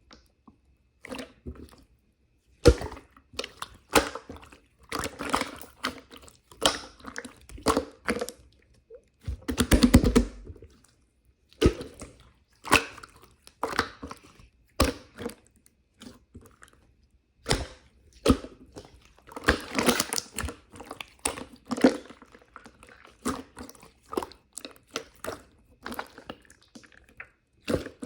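Close-up chewing of crunchy food: irregular crunches and wet smacks, with longer, louder spells about ten and twenty seconds in.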